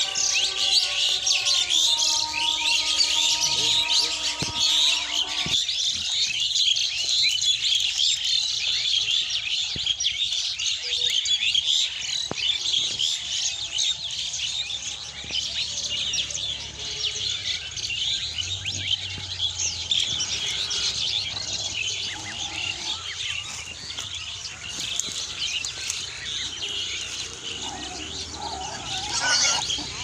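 Dense chorus of many small birds chirping and twittering without a break. A few steady held tones sound underneath during the first five seconds, then stop.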